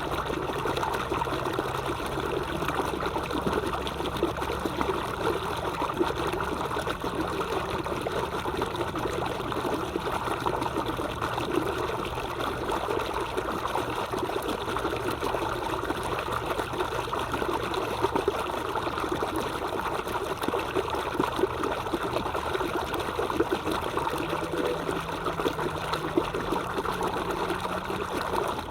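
Stream water trickling and burbling in a steady, continuous wash.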